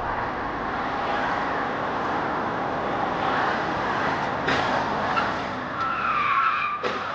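Car on the road: a steady rush of road and engine noise, a sharp knock about four and a half seconds in, and a brief high tyre squeal near the end.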